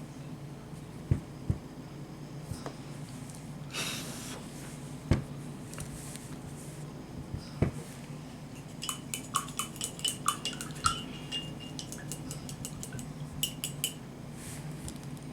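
A few sharp knocks of hard objects set down on a work surface, then a quick run of light clinks with a ringing tone, as of small hard tools or items knocking together, over a steady low hum.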